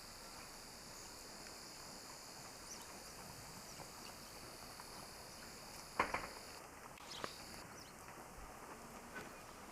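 Small birds pecking: a few sharp taps, the loudest about six seconds in and another about a second later, over a faint steady hiss.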